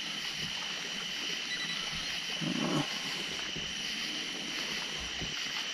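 Steady, high-pitched, even buzz of night insects, with a short low sound about two and a half seconds in.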